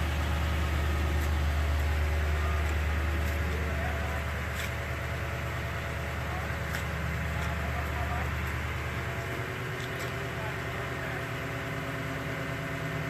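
Toyota Tundra pickup engine idling: a steady low hum that weakens about four seconds in and drops further near nine seconds, with a few faint light clicks.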